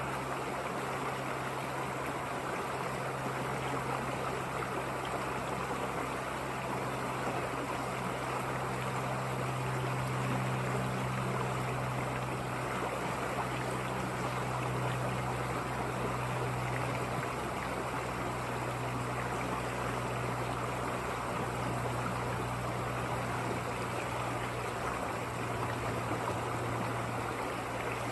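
River water flowing steadily, an even rushing noise with a steady low hum underneath.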